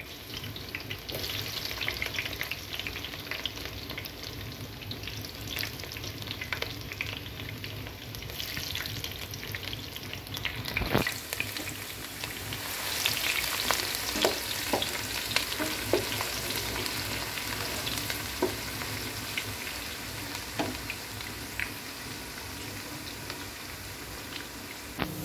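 Sliced onions sizzling and crackling as they fry in hot oil in a deep pan, with many small pops; the spitting grows louder and sharper about halfway through.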